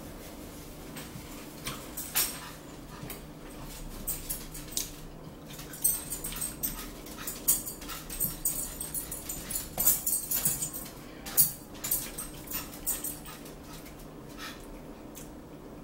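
Close-up eating sounds: a person chewing fried fish, with a quick string of short mouth smacks and clicks from about two seconds in until near the end.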